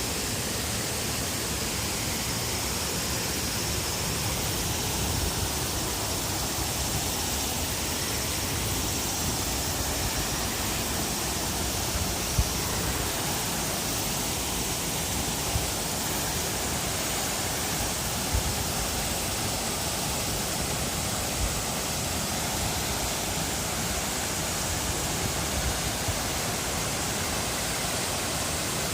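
Waterfall: a steady rush of falling water, with a few brief low thumps.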